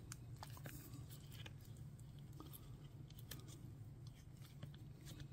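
Faint scattered clicks and crackles of a flexible silicone mold being flexed and peeled away from a cured resin casting by hand, over a low steady hum.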